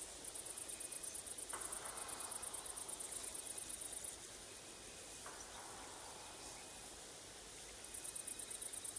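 A stridulating insect gives a high-pitched, rapidly pulsed trill. It breaks off about four seconds in and starts again near the end, with a fainter short chirp repeating about once a second beneath it.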